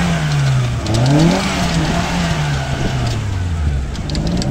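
Off-road 4x4's engine revving up and down while the vehicle lies tipped on its side on a steep dirt bank; the revs climb about a second in, then slowly drop away.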